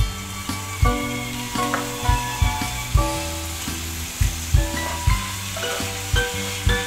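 Thin strips of Jinhua ham frying in oil in an electric hot plate's ceramic pan, a steady sizzle as a wooden spatula stirs them. Background music with sustained notes and a drum beat plays over it.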